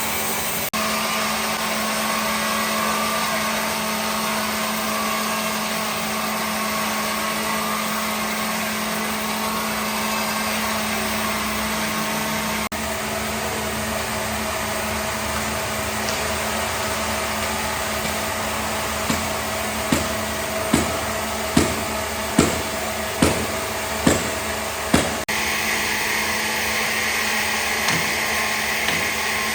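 Power tool running with a steady whine. In the second half come about eight sharp knocks, a little under a second apart.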